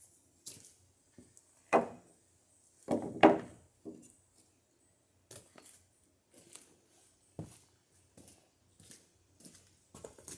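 Wooden knocks and clatter as boards and sticks are laid on a stacked lumber pile: a sharp knock about two seconds in, a louder pair of knocks about a second later, then lighter taps.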